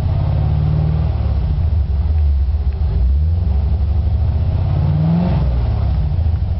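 1986 Chevrolet Corvette's 5.7-litre V8 running through an aftermarket high-performance exhaust, idling with the revs rising briefly a few times, most clearly about five seconds in.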